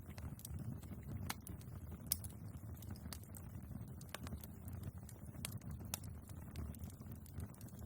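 Wood fire burning in a fireplace, crackling with scattered sharp pops over a low steady rumble of flame; the loudest pop comes about two seconds in.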